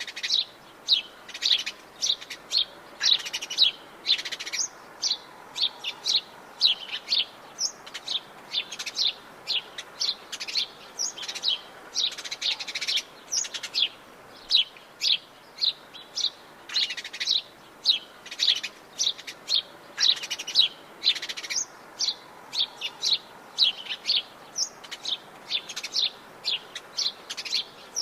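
Wild birds chirping: a dense, unbroken run of short high chirps, several a second.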